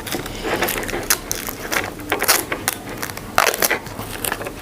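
Plastic packaging being handled and a wireless mic transmitter and receiver lifted out of their tray: a run of irregular crinkles, clicks and rustles.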